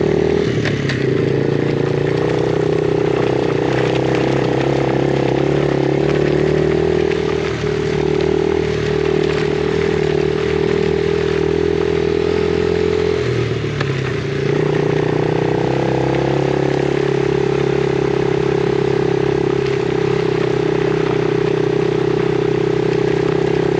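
Yamaha TT-R50E's small four-stroke single-cylinder engine running steadily under way on a dirt road. The engine note dips briefly about a third of the way in and again a little past halfway, changing pitch before it settles back.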